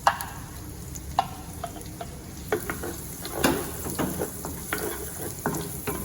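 Chopped garlic and shallots sizzling in hot oil with dried shrimp, stirred in the pan with a utensil that knocks and scrapes against the pan a dozen or so times.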